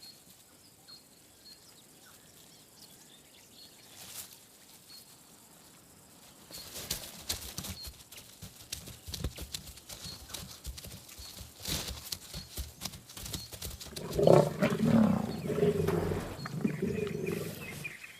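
Lions taking down a young giraffe: several seconds of scuffling and crackling, then a series of deep growls over the last few seconds.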